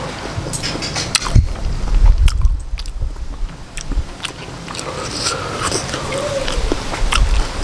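Close-up wet chewing of octopus and rice noodles, with many small sharp smacking clicks from the mouth. A low rumble comes in about a second in and again near the end.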